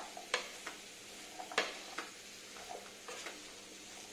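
Chunks of pumpkin frying with spices in a pan while being stirred with a wooden spatula: a faint steady sizzle with a few sharp clicks and scrapes of the spatula against the pan, the clearest about a third of a second in and about a second and a half in.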